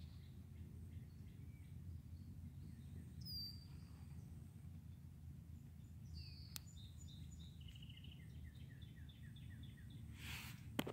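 Faint outdoor ambience: a steady low rumble with songbirds calling, one chirp about three seconds in and then a run of quick repeated notes from about six seconds on. A brief rustle near the end.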